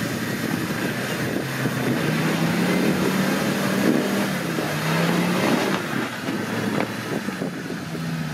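Off-road 4x4's engine running, its pitch wavering slightly up and down, over a rough rushing noise.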